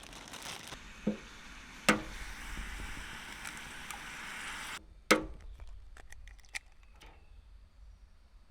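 Tidying-up noises: a steady rushing hiss for nearly five seconds that cuts off suddenly, with a few sharp knocks and then lighter clicks and taps.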